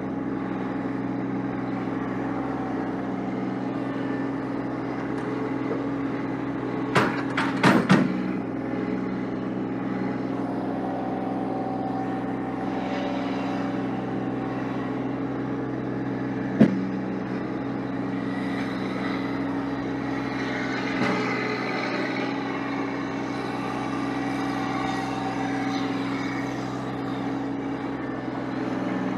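Vehicle engine running steadily at a constant speed, with a short cluster of sharp clicks or knocks about seven seconds in and a single knock around the middle.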